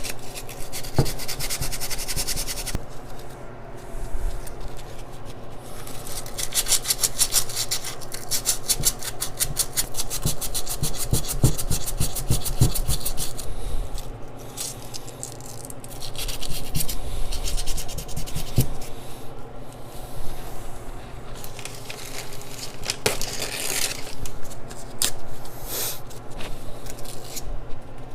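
Hand sanding of turbocharger housing metal with 320-grit sandpaper: runs of quick back-and-forth scrubbing strokes, several a second, stopping briefly a few times, to clean deposits off the surface.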